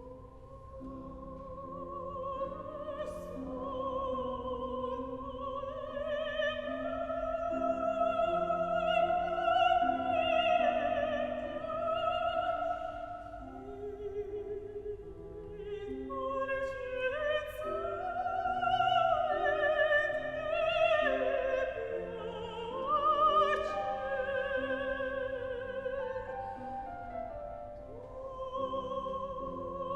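Operatic singing: a high voice with wide vibrato sings a long phrase over instrumental accompaniment, easing off briefly about halfway through.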